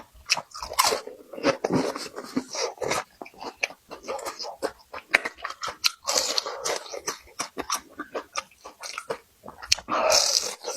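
A person chewing and biting food, with many short crunching clicks in quick, irregular succession.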